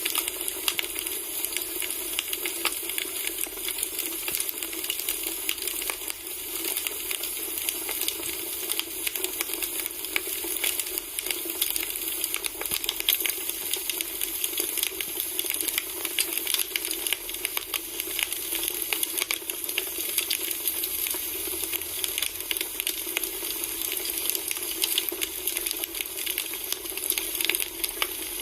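Wood fire burning, crackling steadily with many small dense pops over a continuous hiss.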